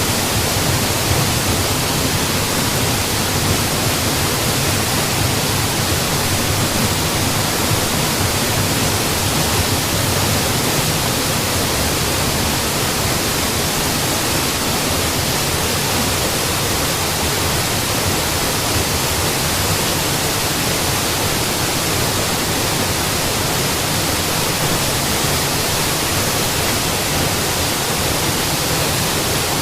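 Waterfall with water pouring steadily, an even rushing hiss with no changes.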